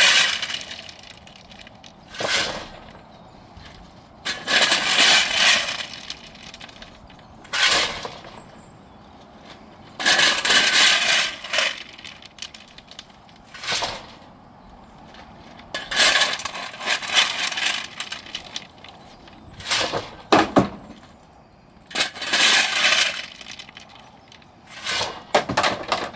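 Crunching and crackling of dry fallen leaves underfoot, coming in irregular bursts of a second or two with short pauses between.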